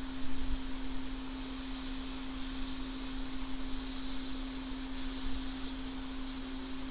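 A steady, single-pitched electrical hum over an even hiss from the repair bench equipment.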